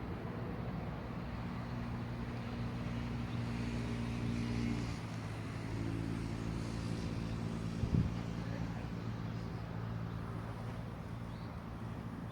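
A motor engine running steadily with a low hum, its pitch changing about five seconds in, and a short thump about eight seconds in.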